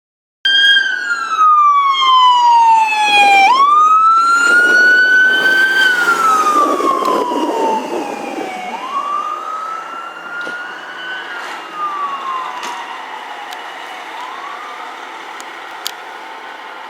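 Fire truck siren wailing, its pitch sliding down over a few seconds and then sweeping back up, over and over. It is loud at first and fades steadily as the truck moves away.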